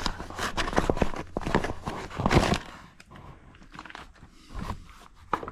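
A small cardboard box being opened and its packaging handled: a quick run of irregular crackles and clicks for the first couple of seconds, then a few sparser, quieter clicks.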